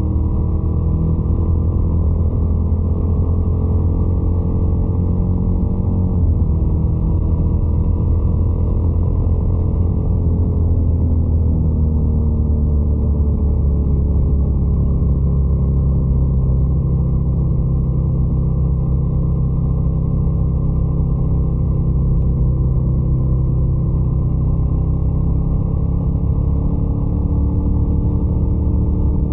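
Twin-cylinder motorcycle engine running steadily under way, its pitch easing down and back up a few times as the speed changes.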